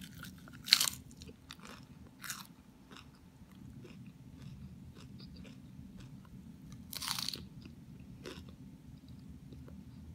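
Lettuce leaf being bitten and chewed close to the mouth. A loud crunch comes about a second in, another at about two seconds and a longer one around seven seconds, with quieter chewing crunches between, over a steady low hum.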